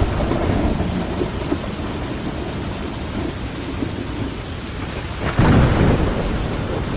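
Steady rain pattering on window glass under a low rolling rumble of thunder, with a louder clap of thunder about five seconds in.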